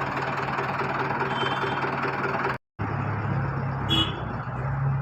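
A vehicle engine running steadily with a low, even drone. The sound drops out completely for a moment just past the halfway point, then resumes.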